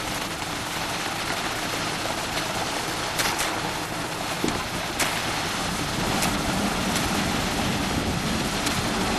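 Self-loading concrete mixer truck at work: a steady, noisy machine sound with a few sharp knocks, growing fuller in the low range about six seconds in.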